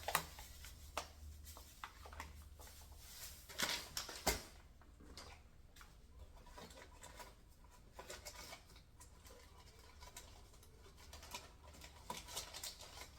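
Light kitchen handling sounds: scattered soft clicks and taps of utensils and containers while a sweet potato mixture is prepared, busiest around four seconds in, over a faint low hum.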